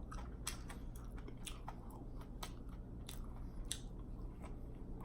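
A person chewing food close to the microphone, with irregular wet mouth-smacking clicks.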